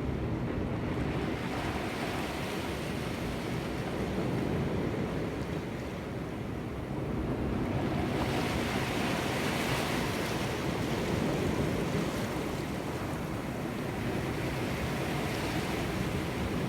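Sea waves washing against the shore, with wind on the microphone; the surf surges louder about halfway through.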